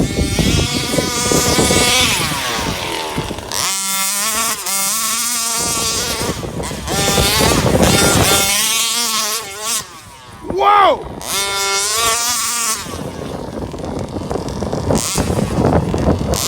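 34cc two-stroke engine in a 1/5-scale RC Baja buggy revving hard and dropping back again and again as the throttle is blipped while driving, its pitch rising and falling. A short shout of "Whoa!" comes about eleven seconds in.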